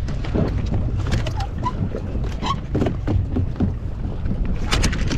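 Wind buffeting the microphone aboard a small inflatable boat at sea: a steady low rumble with scattered short knocks or splashes.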